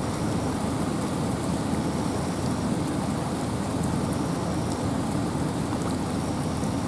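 Steady rain and wind in a forest: an even, unbroken rush, heaviest in the low end, with scattered light drop ticks.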